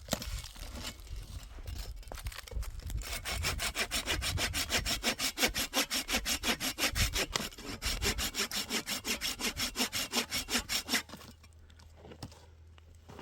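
Hand saw cutting through wood in quick, even back-and-forth strokes, about five a second, which stop abruptly near the end.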